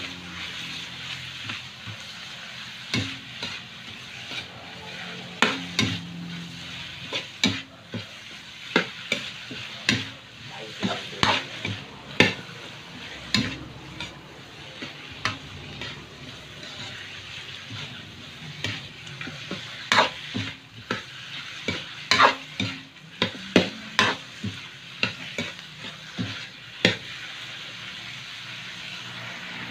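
Chicken pieces frying in a large metal wok, a steady sizzle broken by irregular scrapes and knocks of the spatula against the pan as the meat is stirred.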